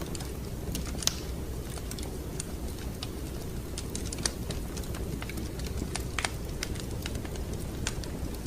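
Wood fire crackling in a fireplace: irregular sharp pops and snaps over a steady low rumble of the burning fire, with louder pops about a second in, around four seconds and around six seconds.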